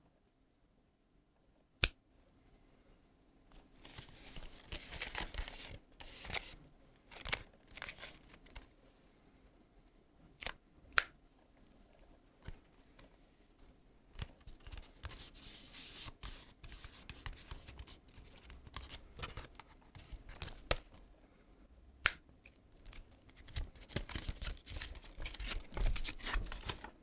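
Packaging being handled and torn open: intermittent crinkling and tearing, with a few sharp clicks.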